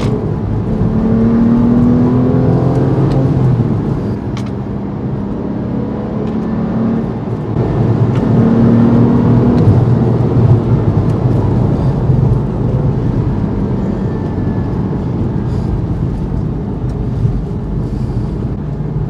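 Porsche 911 (997.1) flat-six engine and road noise while driving, the engine note rising twice under acceleration, about a second in and again about eight seconds in.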